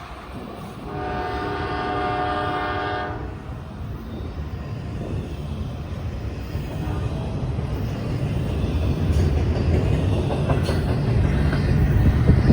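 Diesel locomotive air horn on a Norfolk Southern freight train sounding one long blast about a second in, lasting about two seconds, then the low rumble of the train growing louder as it comes closer.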